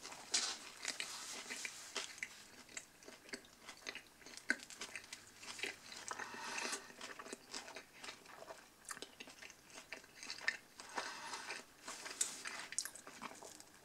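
A person chewing a mouthful of submarine sandwich on Italian bread with lettuce, pickles and cucumber: faint, irregular crunching with small wet mouth clicks.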